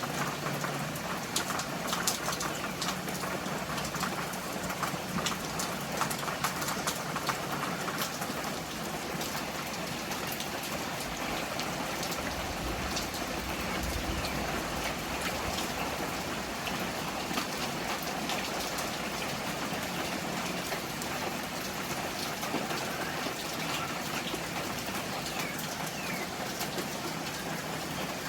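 Rain falling steadily, with many separate drops striking a surface in the first several seconds, then settling into a more even hiss.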